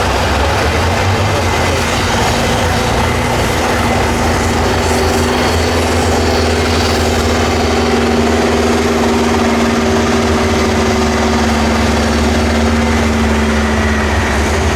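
Heavy 6x6 trial truck's engine running steadily, with a steady hum that strengthens from about four seconds in.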